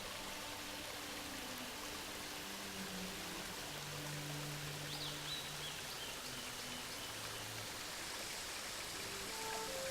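Rushing water of a waterfall, a steady noise throughout, with soft, sustained low background music notes underneath. A brief high chirp comes about five seconds in.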